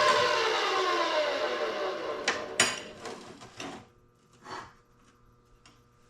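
An electric power tool's motor spinning down after being switched off, its whine falling steadily in pitch and fading over about three seconds. A few sharp metallic knocks come near the end of the spin-down, then a brief softer noise.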